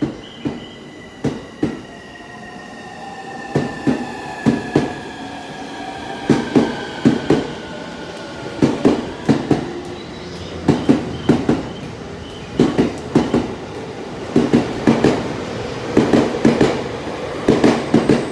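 JR East E231 series 1000 electric commuter train pulling away from a station platform and accelerating. The electric whine of its traction motors shifts in pitch as it gathers speed. The wheels clack over the rail joints in pairs, the clacks coming quicker and quicker.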